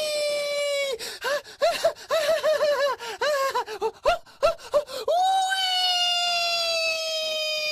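A high-pitched, scream-like cry held for about a second and slowly falling in pitch, then a quick run of about a dozen short squeaky yelps that each rise and fall. About five seconds in comes another long cry, slowly falling.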